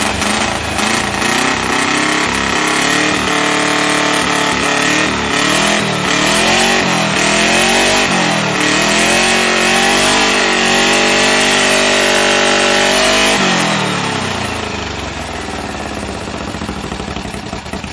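Freshly built 1776cc VW Beetle air-cooled flat-four running on its first start, its revs rising and falling unevenly and then held up before dropping back about three-quarters of the way through. It sounds to the builders as though it is missing on a couple of cylinders.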